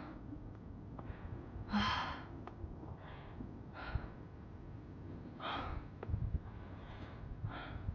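A person's breaths, audible in and out about every one to two seconds, over a low steady rumble.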